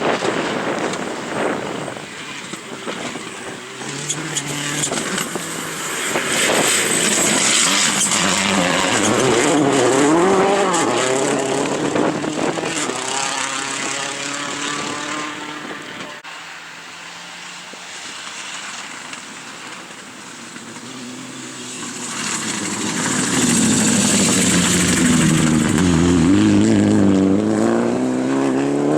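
Rally car engines at full throttle, revving up and dropping between gear changes as the cars come past, loudest twice with a quieter stretch in between.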